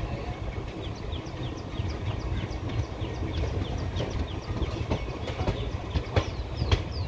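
A passenger train running on the track, heard from an open coach doorway: a steady low rumble of the wheels, with a few sharp clicks near the end as the wheels cross rail joints. Short high falling chirps repeat a few times a second over it.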